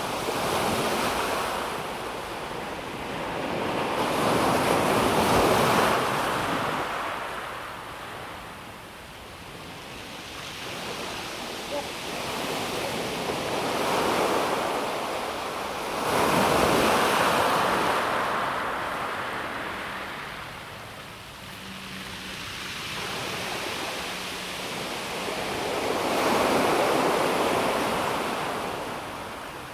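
Calm sea waves washing onto a pebble beach, swelling and fading in about five surges several seconds apart.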